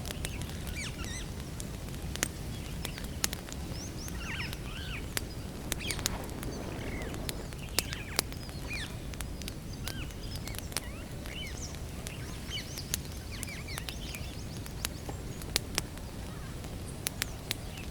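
Wood campfire crackling, with sharp pops scattered irregularly over a steady low rush of burning, a few pops louder than the rest. Small birds chirp and twitter in the background.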